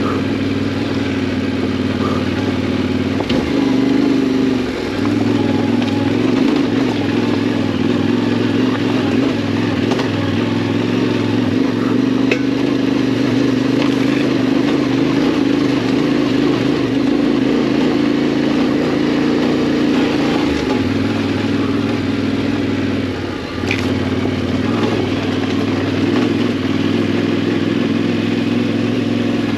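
Yamaha Ténéré 700's parallel-twin engine running steadily under way off-road, with wind and road noise over it. The engine note briefly changes and drops twice, a few seconds in and again about three quarters of the way through, as the throttle is eased or a gear is changed.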